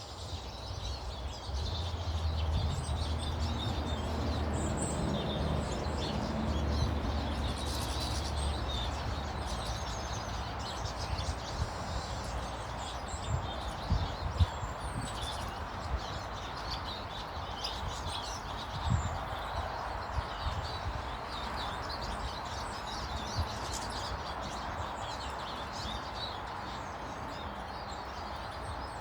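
Small birds chirping and twittering in a garden over a steady outdoor background noise. A low rumble runs through the first several seconds, and a few short knocks come near the middle.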